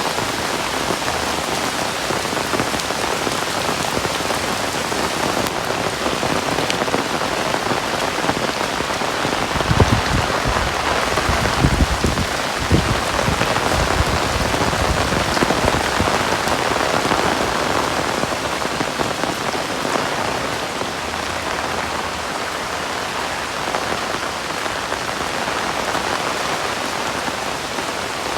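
Heavy rain falling steadily on surfaces, a dense, even hiss of drops. A brief low rumble comes and goes near the middle.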